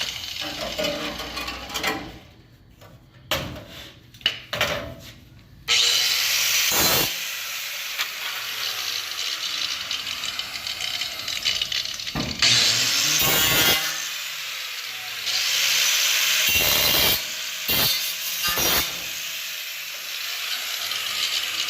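A power cutting tool cutting through the car's rusted quarter-panel sheet metal, giving a harsh, steady grinding-sawing noise. It stops briefly about two seconds in, with a few clicks, then resumes about six seconds in and runs on, getting louder twice.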